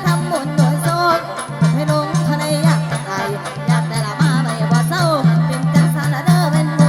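Mor lam prayuk band music: a bass note pulsing about twice a second under a bending lead melody.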